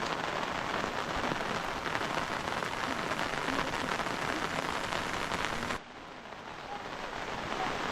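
Steady heavy rain falling, a dense patter of drops. About six seconds in it drops suddenly quieter, then slowly grows louder again.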